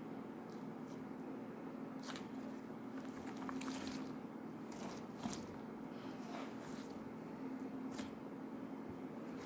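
Slime being squished and pressed by hand, with small sticky clicks and pops that cluster around three to four seconds in. A steady low hum runs underneath.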